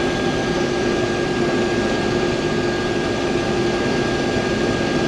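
Combine harvester running steadily under load while cutting wheat: an even mechanical rumble with a constant low hum and a thin high whine.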